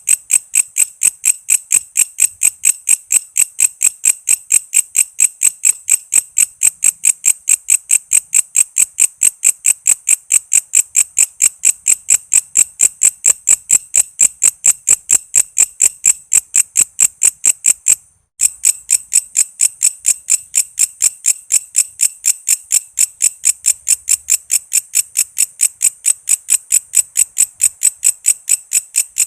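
Walang kece bush cricket calling: an even train of sharp, high chirps, about three or four a second, broken once by a short gap about eighteen seconds in.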